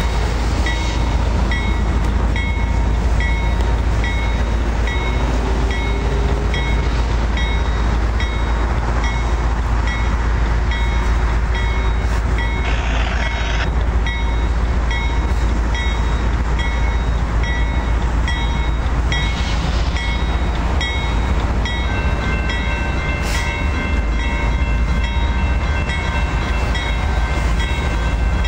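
Freight train passing, with a continuous heavy rumble. A high tone pulses about twice a second throughout, and a few extra steady tones join after about 22 s.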